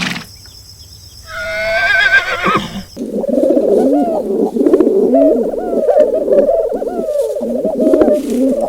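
Farm animal calls: a single high, wavering call about a second in, then from about three seconds a dense, continuous chorus of many overlapping calls.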